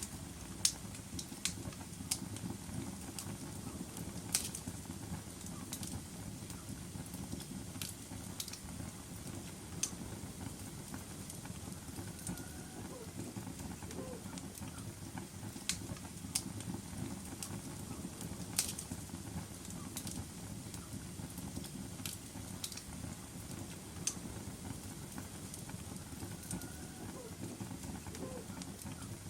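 Wood fire crackling in a fireplace: a steady low rush of burning with sharp pops and snaps every second or two.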